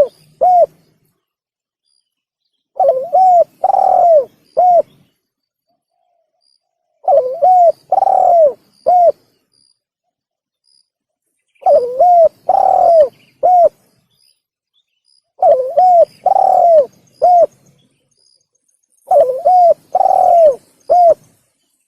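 Spotted dove (tekukur) cooing: its repeated call phrase of about four coos, the third the longest, sounds five times at roughly four-second intervals with silence between. This is a lure recording used to draw in wild doves.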